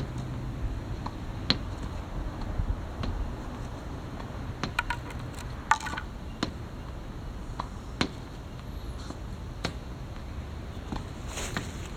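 Sharp clicks and knocks, about a dozen, at irregular intervals, with the loudest near the middle, over a steady low hum.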